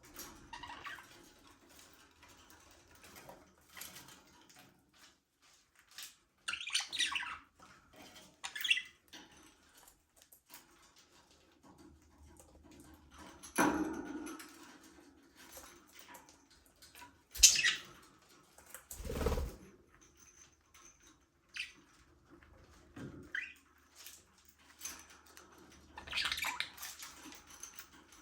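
Budgerigars chirping in short, scattered bursts of calls with quiet gaps between them. The calls are mixed with a few knocks and a low thump, the loudest a sharp click about two-thirds of the way in.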